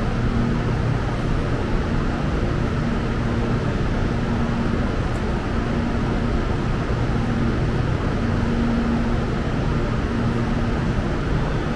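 Electric commuter train rumbling steadily at a station, with a hum that comes and goes several times.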